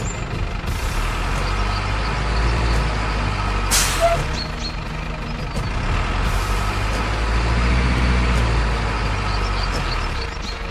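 Recorded diesel truck engine sound running steadily from an RC toy truck's sound unit, with a short air-brake hiss about four seconds in.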